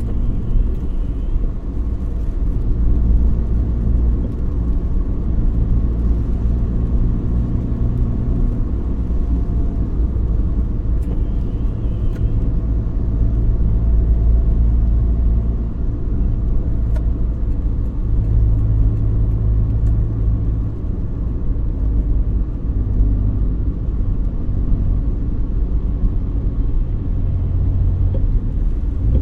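Car on the move: a steady low rumble of engine and road noise that rises and falls slightly with the traffic.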